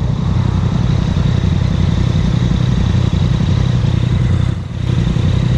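Motorcycle engine idling steadily, with a brief dip in level about four and a half seconds in.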